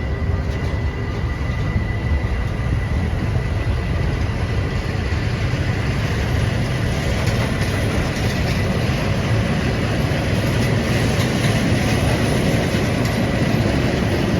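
DB Cargo class 6400 diesel-electric locomotive hauling a work train past: low engine rumble and wheel noise on the rails, building slightly, with a steady high tone running above it.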